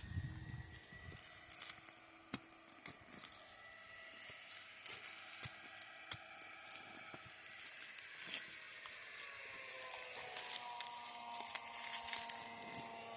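Scattered soft crackling, tearing and crumbling of soil and roots as garlic bulbs are dug and pulled from the ground. A faint steady hum comes in about two-thirds of the way through.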